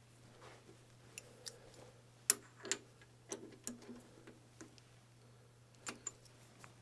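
Scattered light clicks and taps, the loudest about two and a half seconds in, as a locomotive wheel is seated and clamped in a lathe's three-jaw chuck, over a faint steady low hum.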